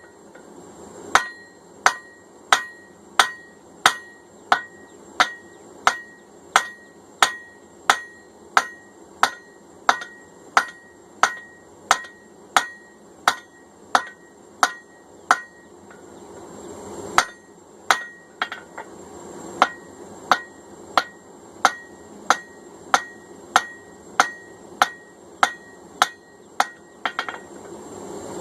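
Hand hammer blows on hot steel over an anvil, about two a second, each with a short metallic ring, as the peen of a cross peen hammer head is drawn out. The strikes pause briefly about halfway through and again near the end.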